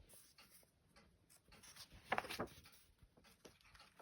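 Pages of a children's book being turned by hand, with soft paper rustling and one louder rustle of a page about two seconds in.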